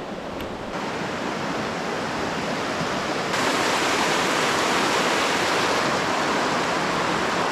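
River water rushing steadily over its bed, growing louder about three seconds in.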